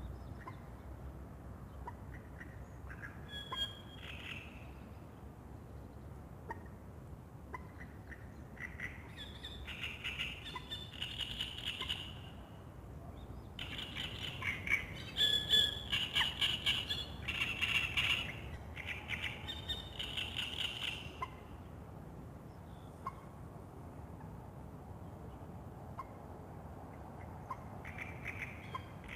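Songbirds singing at dawn by a lake: scattered single notes, then fast chattering song phrases about ten seconds in and again from about fourteen to twenty-one seconds, over a steady low background hum.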